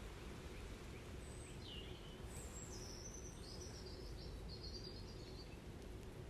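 A songbird singing a phrase of high, short whistled notes, beginning with a falling note, over a steady low outdoor background noise.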